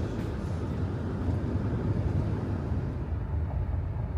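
Steady low rumbling noise with no clear tones or distinct events.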